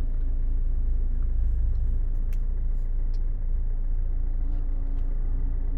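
Low, steady rumble of a car's engine running, with a few faint clicks.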